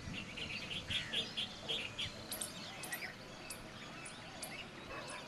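Several birds calling outdoors. A quick run of about half a dozen repeated notes comes in the first two seconds, followed by short, sharp, high chirps every second or so.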